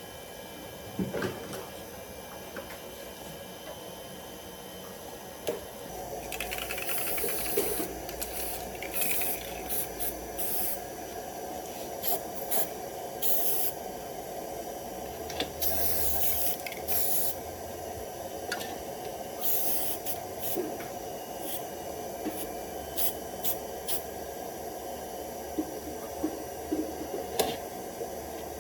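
Repeated short hissing spray bursts, over a steady hum that starts about six seconds in.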